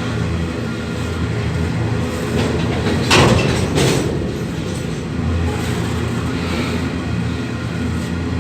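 Suburban electric passenger train running past with a steady low motor hum, and a louder rush of noise about three seconds in.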